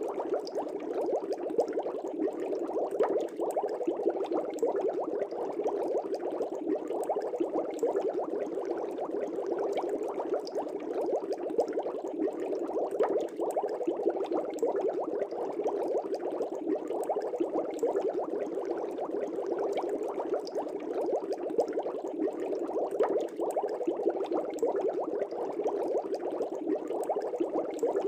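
Fish tank air bubbles rising and breaking at the surface in a steady, continuous bubbling, with a fine scatter of small pops.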